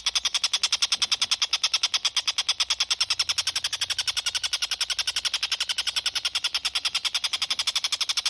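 A tengkek buto kingfisher calling in a fast, even rattle of about ten sharp notes a second, kept up without a pause. It is a recorded call played as masteran training song for cage birds.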